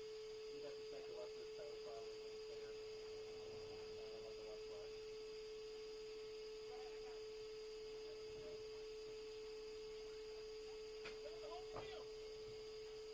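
A steady, single-pitched electronic tone like a hum or whine on a radio channel, with faint muffled voices under it.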